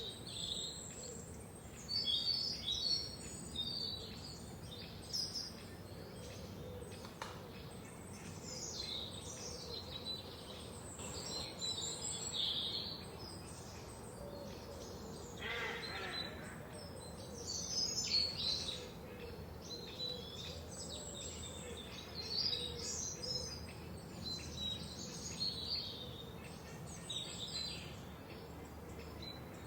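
Several forest birds singing and chirping, with overlapping high short phrases and trills throughout over a steady faint background hiss, and one lower call about halfway through.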